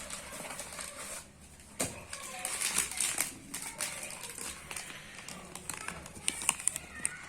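Packaging being handled during an unboxing: crinkling and rustling, then a run of sharp plastic clicks near the end.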